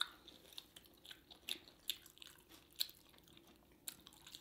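Faint, close-miked chewing and mouth sounds of a person eating, with irregular small wet clicks and smacks.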